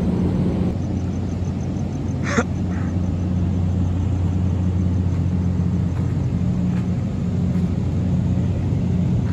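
A running engine holding a steady low hum, with one sharp knock about two and a half seconds in.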